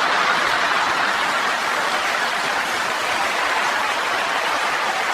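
Audience applauding steadily: an even wash of clapping.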